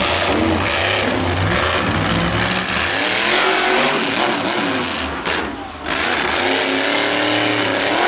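Monster truck's engine revving hard, its pitch rising and falling with the throttle. It drops off briefly about five and a half seconds in, then picks up again.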